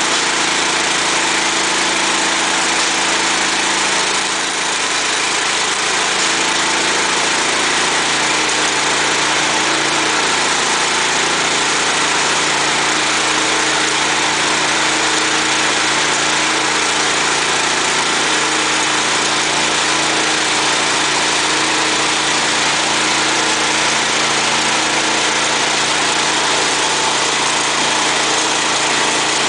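Petrol engine driving a feed extruder, running steadily under a constant load, with a brief slight dip in level about four seconds in.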